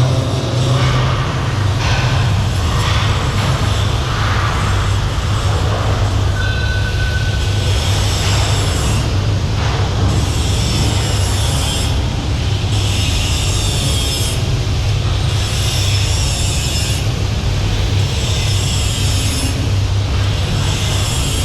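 Loud, steady machinery noise of a ship's engine room: a deep hum under a broad roar, with a high hiss that comes and goes every second or two.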